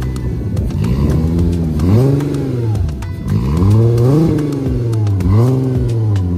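Mk1 VW Golf's engine idling and being blipped, revving up and dropping back three times.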